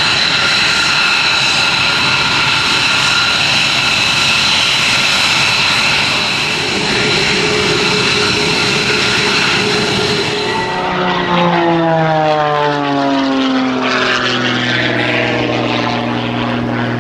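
Aircraft flying past low, loud engine noise with a steady high whine; about eleven seconds in, a propeller engine's drone slides down in pitch as it passes overhead and moves away, settling into a steady low drone.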